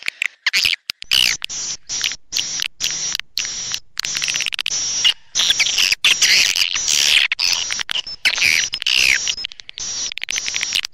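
Swiftlet call-lure recording: rapid high twittering and chirping of edible-nest swiftlets, chopped by brief gaps throughout.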